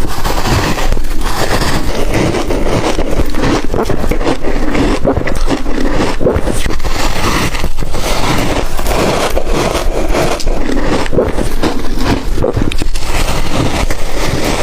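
Ice being bitten and crunched close to the microphone: a dense, continuous run of loud, crackling crunches.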